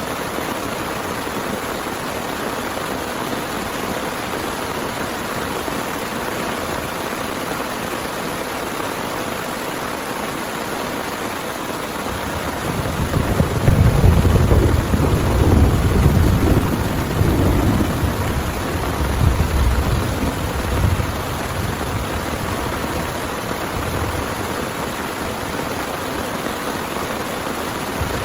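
Heavy rain falling steadily, with a roll of thunder rumbling in about halfway through and fading away over several seconds.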